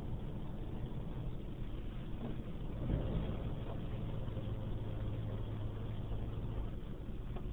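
A car running, heard from inside the cabin as a steady low rumble and hum, a little louder about three seconds in.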